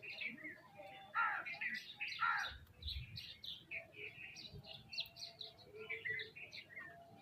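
A group of birds, sparrows and mynas among them, chirping busily without pause. Two louder calls slide downward, about a second and about two seconds in.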